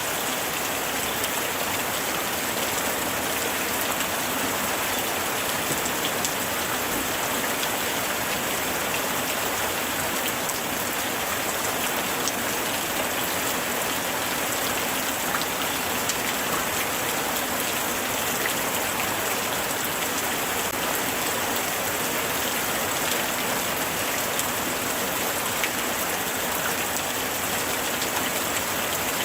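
Light rain falling steadily, a dense patter of drops with a few sharper drip ticks scattered through it.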